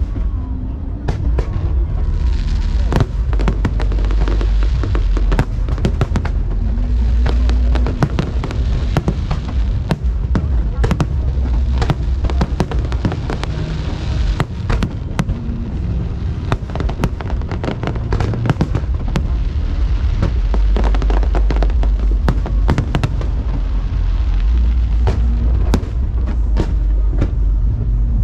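Fireworks display going off continuously: rapid, dense bangs and crackles over heavy, rolling low booms, with no break.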